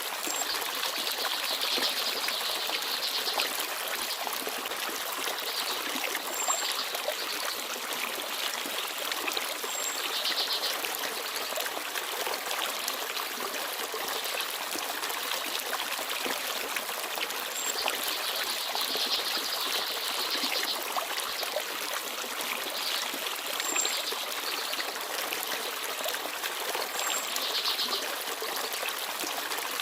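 Small forest stream babbling and trickling steadily over stones, with a few brief, high bird chirps now and then.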